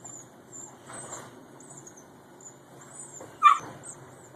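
Small dog giving one short, sharp yip about three and a half seconds in.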